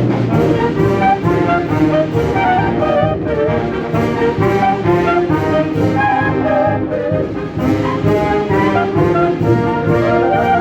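A wind band playing, with brass prominent in sustained, moving chords over a steady percussion beat.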